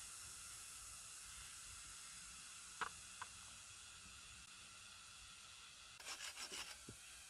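Faint steady hiss with two light clicks about three seconds in and a quick run of about six sharp taps near the end.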